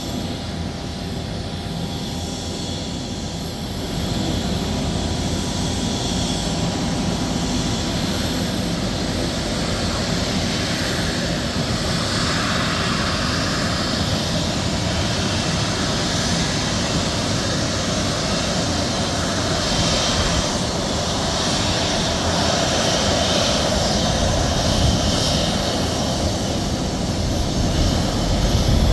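Airliner engines running steadily with a broad rushing noise, stepping up in loudness about four seconds in and again near the end.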